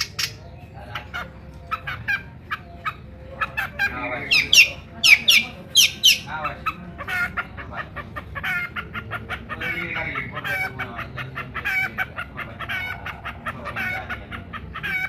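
Long-tailed shrike singing a noisy, varied song: loud shrill calls about four to six seconds in, then a fast run of repeated chattering notes.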